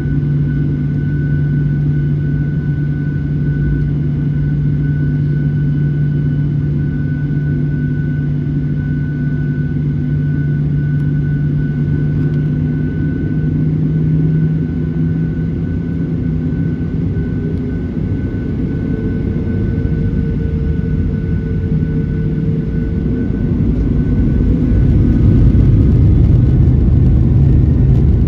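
Cabin noise of a Boeing 737-800's CFM56-7B jet engines heard from inside the cabin: a steady hum with a high whine over a rumbling hiss. Near the end it grows louder, with a heavier low rumble.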